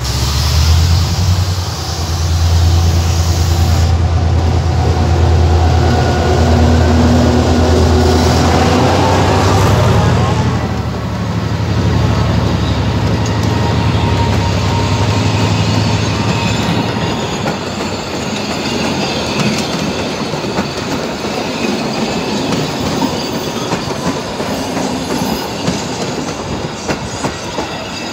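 A passenger train passing close by: a loud low engine hum for about the first sixteen seconds, then the coaches rolling past with irregular wheel clatter over the rail joints and a faint high wheel squeal.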